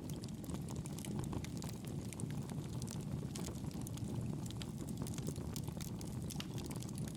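Campfire burning, a steady low rush of flames with many small crackles and pops scattered through it.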